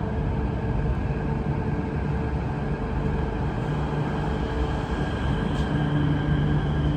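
MTR Q-train running on the rails: a steady rumble with several steady humming tones over it.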